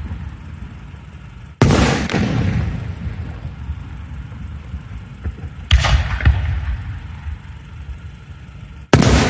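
Aerial fireworks going off: three loud booms, about one and a half seconds in, again some four seconds later, and once more near the end, each trailing a long rumbling echo that dies away over a couple of seconds.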